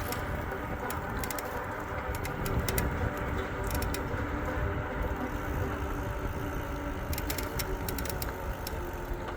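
E-bike riding at a slow cruise: a steady motor whine over low tyre and wind rumble, with light rattling clicks from the bike.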